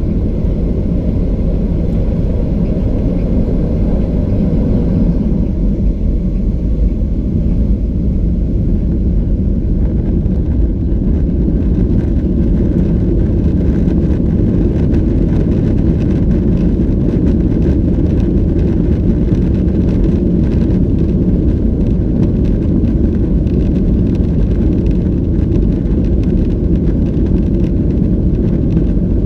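Steady low rumble inside the cabin of a Boeing 737-800 in motion: noise from its CFM56-7B engines and from airflow, holding level throughout.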